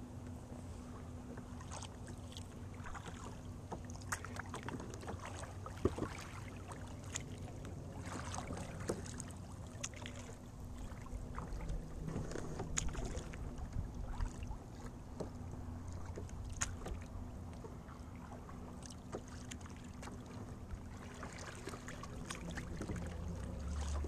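Kayak paddling on calm water: paddle blades dipping and dripping, with scattered small splashes and knocks over a low rumble.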